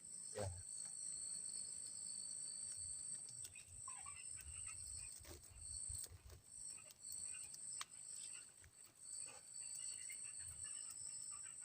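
Steady high-pitched drone of forest insects, with a few faint chirps and scattered light knocks and rustles.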